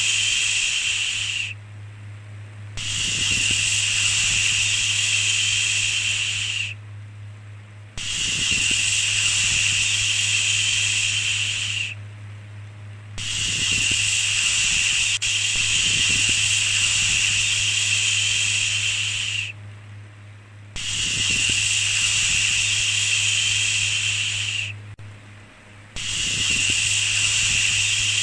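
Long, steady shushing 'shhh' sounds repeated one after another, each lasting four to six seconds with a short pause of about a second between them, over a low steady hum.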